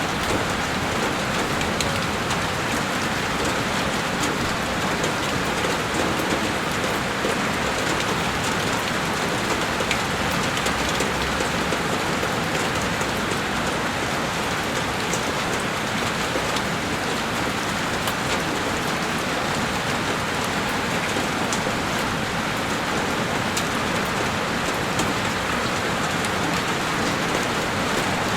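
Heavy rain falling steadily on a window pane, a dense even hiss with countless small drop ticks.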